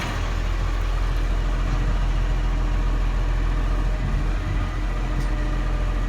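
Vehicle engine idling steadily: a continuous low rumble with a constant hum.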